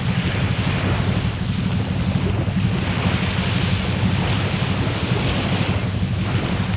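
Wood fire burning in a fire pit: a steady low rush of flames with a few faint crackles, over a steady high-pitched whine.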